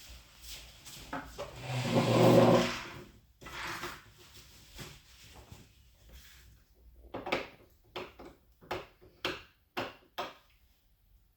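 Packaging being handled during a TV unboxing. About two seconds in there is a loud pitched rub, followed by softer rustling and then a run of sharp knocks and taps, about two a second, in the last few seconds.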